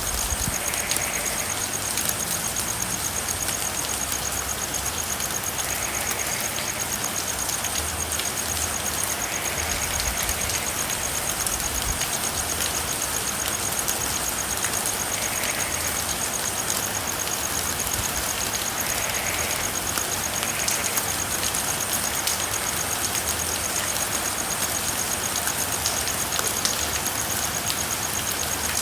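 Steady rain falling, an even hiss with no let-up. Faint short frog calls come through every few seconds.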